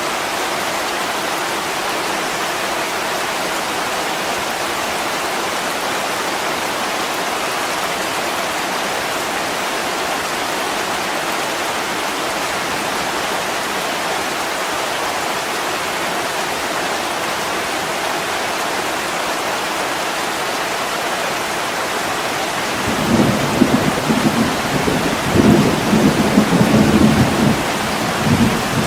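Heavy rain pouring steadily on a window. Near the end, a low, rolling rumble of thunder comes in and swells in uneven waves.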